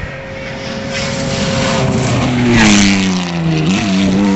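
Rally car engine at high revs, growing louder to a peak about two and a half seconds in, with a burst of noise at the loudest point; the engine note then falls and levels off.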